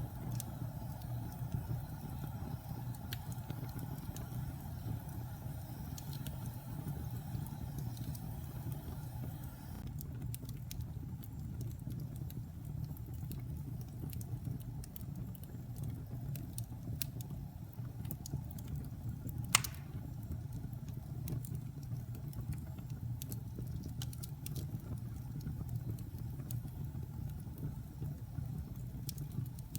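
Wood fire burning in a fireplace: a steady low rumble with scattered faint crackles and one sharp pop about twenty seconds in.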